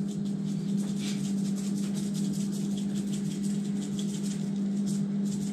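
A steady low hum with a faint background hiss.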